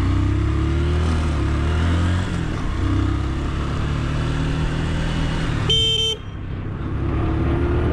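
Vehicle engine running on the road, its pitch gliding slightly with speed, with one short horn honk lasting about half a second around six seconds in.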